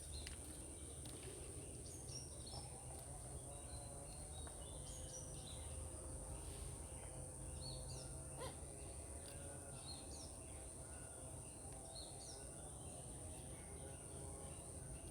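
Faint garden ambience of birds chirping: many short, high chirps scattered throughout, over a steady high-pitched whine and a low rumble.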